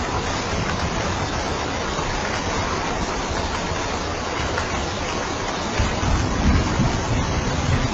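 Steady, heavy rain as a dense, even hiss, with a low rumble swelling near the end.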